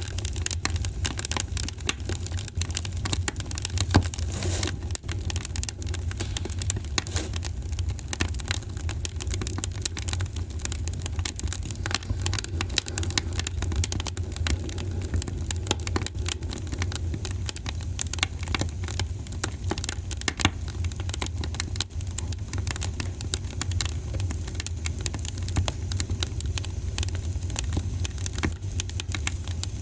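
Wood fire in a fireplace crackling, with dense irregular pops and snaps over a steady low rumble. A louder pop comes about four seconds in and another near twenty seconds in.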